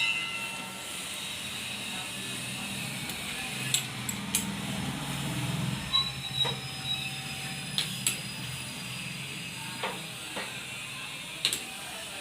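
A lathe running with a steady low hum and a continuous hiss, with several sharp clicks scattered through.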